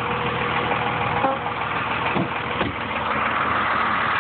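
Dodge 2500's 5.9 L Cummins turbo diesel idling steadily, with a few light knocks.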